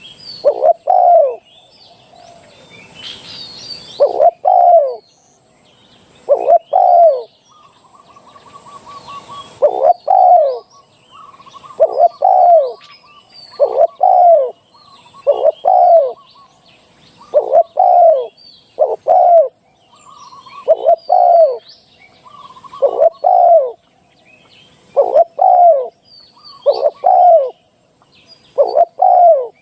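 Spotted dove cooing over and over, two- or three-note phrases repeating about every two seconds. Smaller birds chirp faintly in the background, with a quick trilling call a few times in the middle.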